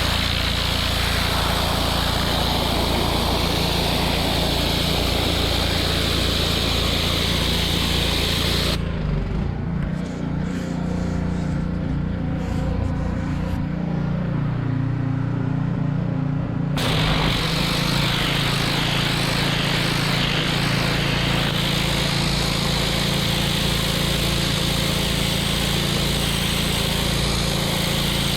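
Gas-engine pressure washer running, with the hiss of its high-pressure water jet. About nine seconds in the spray stops for roughly eight seconds while the engine keeps running, then the spray starts again.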